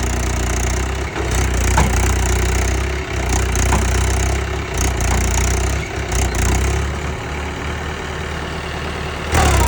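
Mahindra 475 tractor's diesel engine running steadily, its level dipping briefly a few times, with a louder rush of noise near the end.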